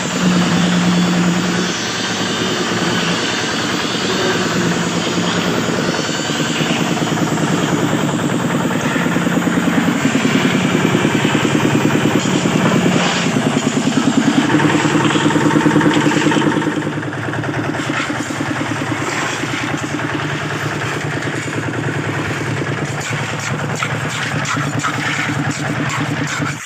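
Engine of concrete-casting machinery running steadily on a building site. It grows louder in the middle and eases off about two-thirds of the way through.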